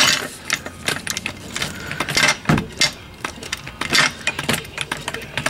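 Irregular metallic clicks and clanks of a car jack being set in place under the car's frame, with a duller knock about halfway through.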